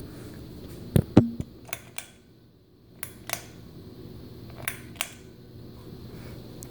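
Quorum Crystal Series ceiling fan running with a steady low hum, broken by a string of sharp clicks and knocks, the loudest a little past one second in.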